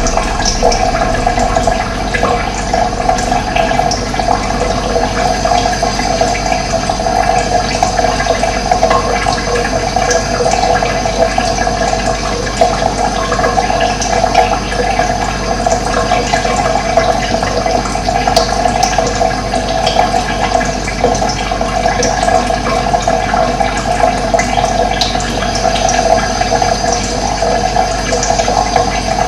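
Running water flowing steadily, with faint short bird chirps now and then.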